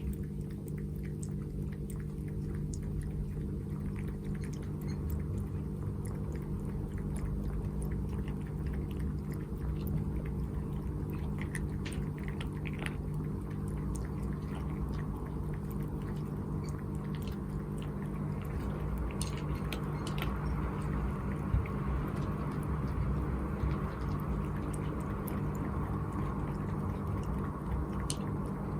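A domestic cat lapping and splashing at its water, with scattered small wet clicks and ticks over a steady low hum.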